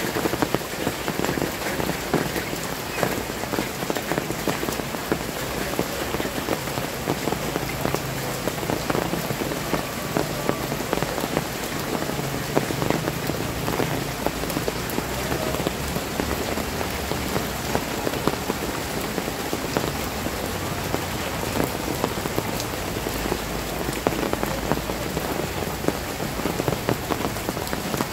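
Heavy rain pouring down onto a flooded paved street, a dense, steady hiss filled with countless drop impacts splashing on standing water.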